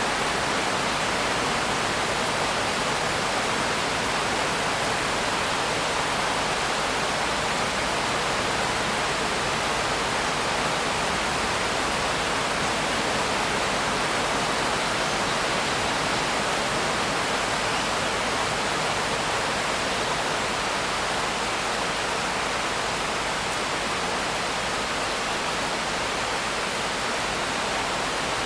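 Rain falling steadily: an even, unbroken hiss with no distinct drops standing out.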